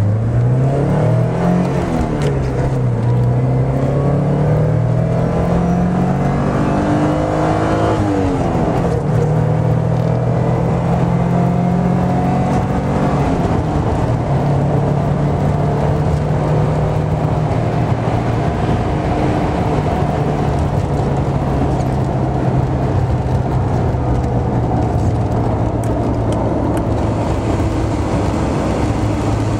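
Porsche 944's 2.5-litre four-cylinder engine heard from inside the cabin while driving. Its pitch climbs over the first several seconds, drops sharply at a gear change about eight seconds in, then holds steady while cruising, with road noise underneath.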